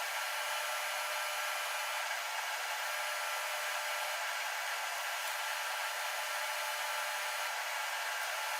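Steady hiss of a gas torch flame while a worn part is built up with braze.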